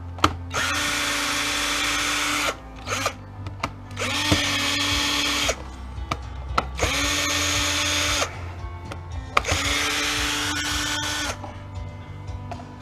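Electric drill/driver running in four bursts of about two seconds each, with small clicks and knocks between the bursts.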